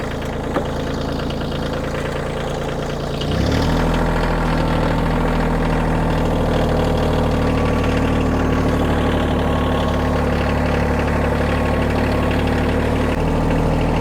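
Kioti tractor's diesel engine idling, then throttled up about three seconds in and held steady at the higher speed.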